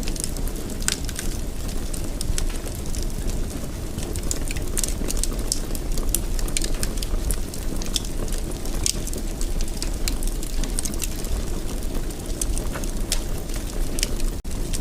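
Fireplace fire burning with a steady low rumble and frequent irregular sharp crackles and pops. The sound briefly cuts out for a split second near the end.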